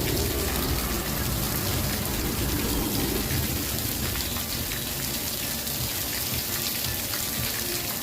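Campfire crackling: a steady hiss dotted with many small pops and ticks over a low rumble.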